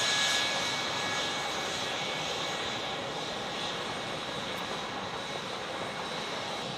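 Jet airliner's engines passing and receding: a steady rushing roar with a faint high whine, loudest at the start and slowly fading.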